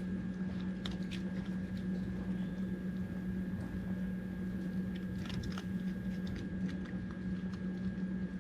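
Raccoon chewing dry dog food kibble, with scattered short crunches, over a steady low hum.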